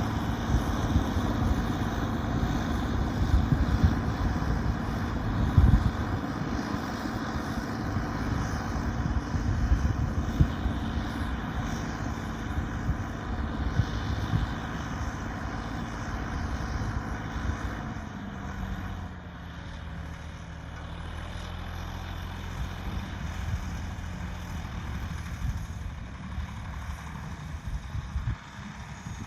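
T-150K tractor's diesel engine running steadily under load while ploughing. About two-thirds of the way through, the engine note drops in pitch and grows quieter.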